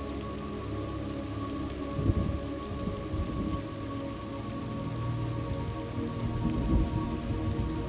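Steady rain of a thunderstorm, with low rumbles of thunder about two seconds in and again near the end.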